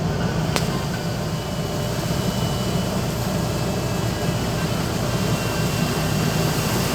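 Automatic car wash machinery running: a steady, even rush of noise over a low rumble.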